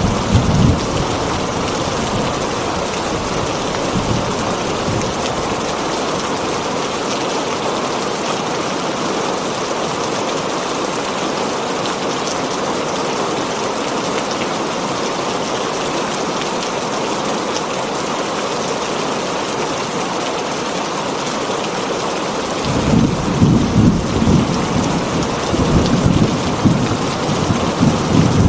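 Heavy rain falling steadily on a tin roof, with low rolling rumbles of thunder at the start and again in irregular surges over the last few seconds.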